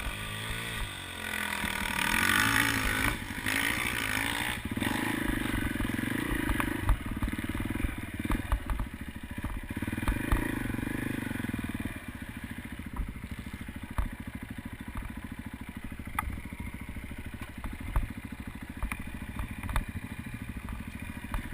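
Motocross motorcycle engines revving, rising and falling in pitch, then running steadily; after about twelve seconds the engine sound drops to a quieter drone with scattered clicks.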